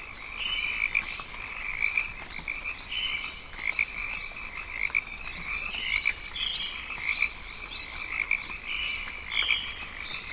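Rainforest frog chorus: many frogs calling in a dense, pulsing band. Short rising chirps sound above it, growing thicker in the second half.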